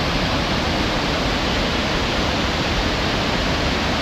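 Waterfall pouring, a loud, steady rush of falling water with no let-up.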